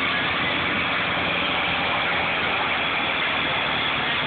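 Tractor engine running steadily, with a loud, even hiss over it.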